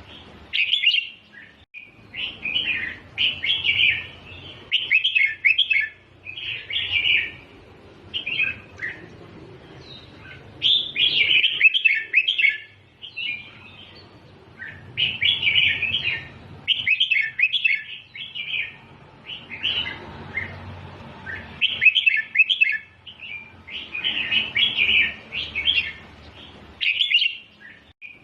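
Red-whiskered bulbul singing: about a dozen short, chirpy song phrases delivered in quick succession with brief pauses between them. This is the repeated, doubled-phrase song used to teach young bulbuls.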